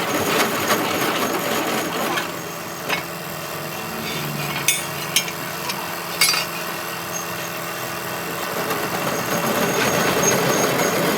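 Steady noise of running machinery in a workshop, with a few sharp metal clinks between about three and six seconds in.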